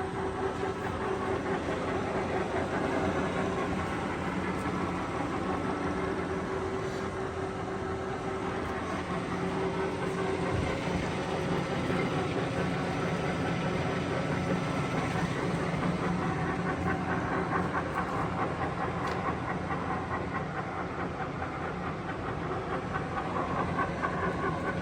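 Kingston HR3000 engine lathe running under power: a steady mechanical running noise of spindle and gearbox, with constant hum-like tones held throughout.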